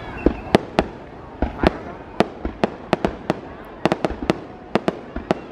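Fireworks bursting in a rapid, irregular series of sharp bangs, about fifteen in a few seconds, some close together in clusters.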